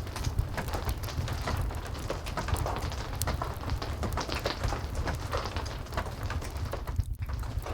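Heavy rain, steady and even over a low rumble, with many short sharp crackles and pops of a fireplace mixed in. The sound briefly thins about seven seconds in.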